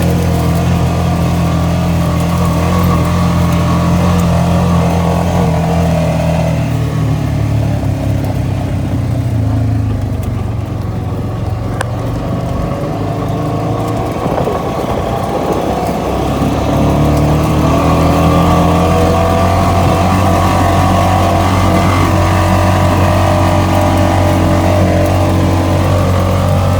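ATV engine running steadily under way. It eases off about a third of the way through, then picks up again.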